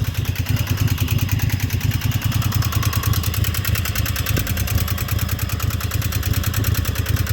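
Riding lawnmower's small engine idling steadily, with a fast, even pulse.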